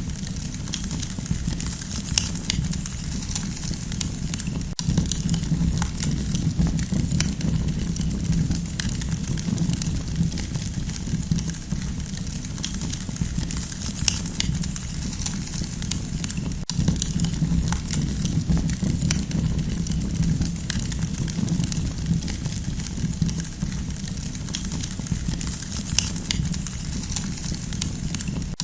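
Campfire burning: wood crackling with frequent small sharp pops over a steady low rumble.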